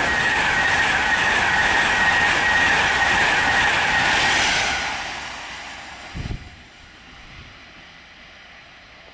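East Coast InterCity 225 (Class 91 electric with Mk4 coaches and driving van trailer) passing through the station at speed: a loud, steady rush of wheels on rail with a high whine, fading away about five seconds in as the rear passes. A short thump comes about six seconds in, followed by faint steady train noise.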